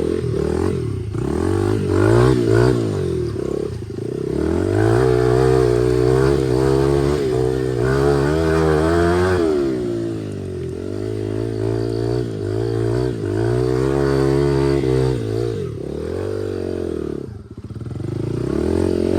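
2003 Honda XR80's single-cylinder four-stroke engine, exhaust baffle removed, revving up and falling back again and again as the throttle is worked on the trail. The engine briefly drops off near the end before picking up again.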